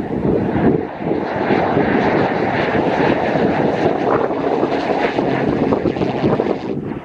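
Strong wind buffeting the microphone, mixed with the steady rushing of an aircraft's jet engine; the higher rushing rises about a second in and cuts off abruptly near the end.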